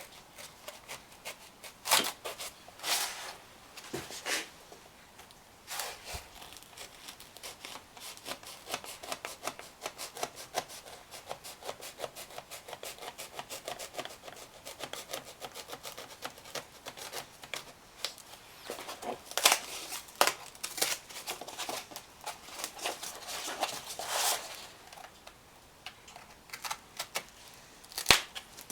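Hand-trimming of a homemade stereo bezel: a rapid run of short scraping strokes, with a few louder single scrapes near the start and again about two-thirds through.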